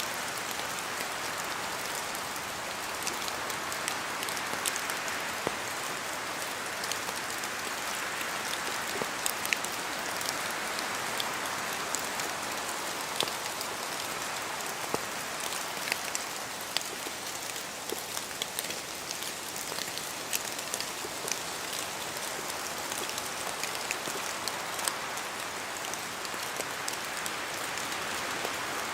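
Steady rain falling in a forest, a continuous hiss with many separate drops ticking sharply close by.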